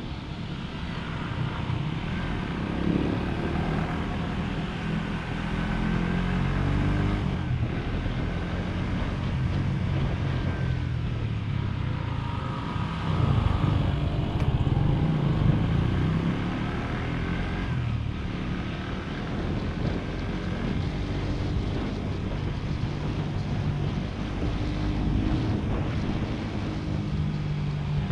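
Motorcycle engine running as the bike is ridden, its note rising and falling with the throttle and louder for a few seconds about halfway through, with wind rumbling on the microphone.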